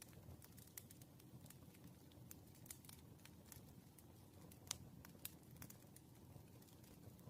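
Faint, irregular small clicks and taps of desk work over a low room hum, with one sharper click a little over halfway through.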